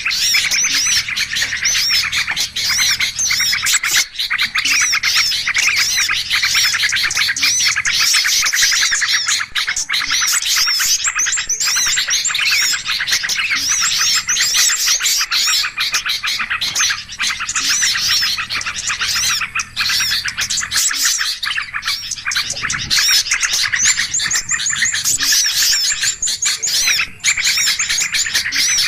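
A dense, continuous chorus of many small songbirds chirping and twittering over one another in quick, short, pitch-sweeping calls. It is a bird-lure recording of agitated, noisy flocking birds, used to call small birds in.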